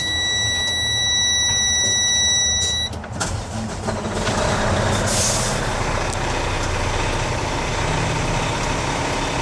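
A dash warning buzzer sounds a steady tone for about three seconds, then the Freightliner 114SD's diesel engine cranks, fires and settles into a steady idle, with a short hiss of air about five seconds in.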